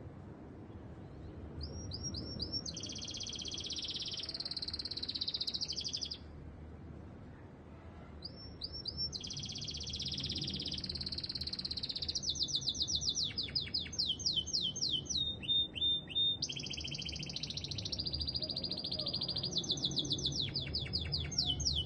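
Domestic canary singing: long phrases of fast trills and runs of quickly repeated, downward-sweeping notes. After the first phrase there is a pause of about three seconds, then the song goes on almost without a break.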